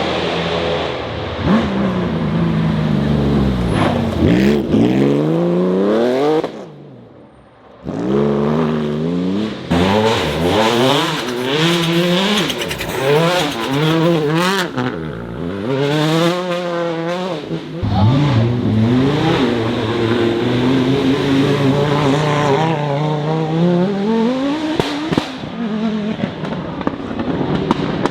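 Rally car engines at full throttle, the revs climbing and dropping sharply again and again through gear changes. The sound falls away briefly about seven seconds in, and a rapid crackle of pops comes from the exhaust near the end.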